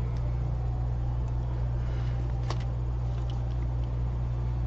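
Steady low electrical hum from the repair bench, with a few light clicks of small tools and one sharper click about two and a half seconds in.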